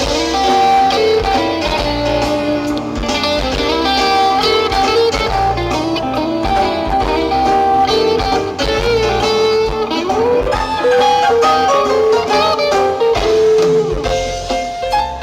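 Live band playing an instrumental break, with a guitar carrying the melody in sustained, bending notes over a bass line.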